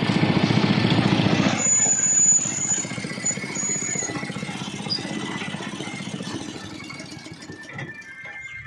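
An engine running with a fast, even beat. It is loudest for the first second and a half, then drops and fades slowly.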